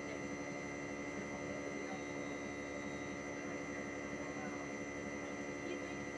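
Outdoor unit of a 1-ton Hitachi split air conditioner running with a steady hum made of several fixed tones over a low rumble.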